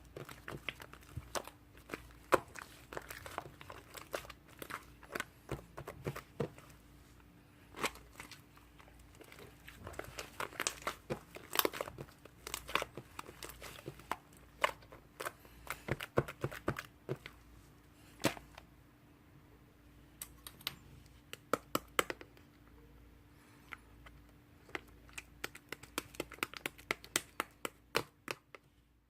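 Slime being worked by hand, giving irregular runs of small crackling pops and clicks with short lulls between.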